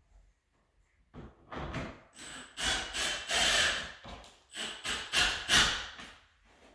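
A run of irregular scraping and rubbing strokes, starting about a second in, loudest in the middle and again near the end.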